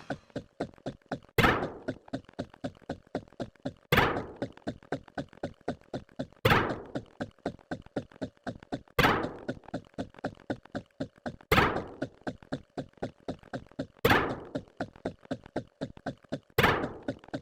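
A fast, even run of short knocks, about six a second, broken by a louder thud with a short ring roughly every two and a half seconds.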